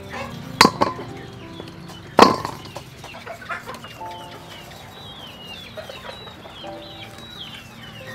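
Birds calling in a run of short falling chirps, with a few sharp clicks in the first couple of seconds, the loudest about two seconds in, over soft background music.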